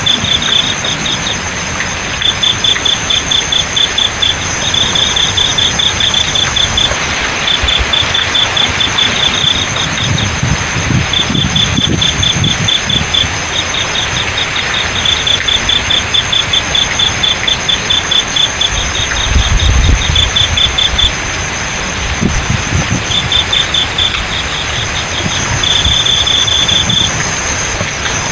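Crickets chirping in short trains of rapid pulses, over a steady high insect trill and an even hiss of flowing water. A low rumble comes in about ten seconds in and again around twenty seconds.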